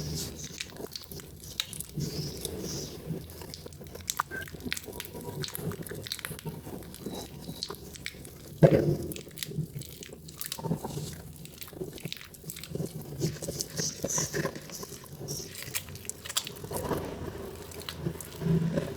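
Wet, soaked Proguard soap being squeezed and worked by hand. It gives soft squelching with many small crackles and clicks, and one louder squelch about eight and a half seconds in.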